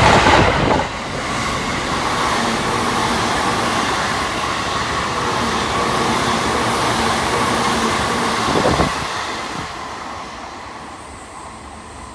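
Electric commuter trains on the tracks: one close by clears within the first second, then a second train runs past with a steady rolling rush and a faint hum. The sound drops suddenly near nine seconds in and fades away.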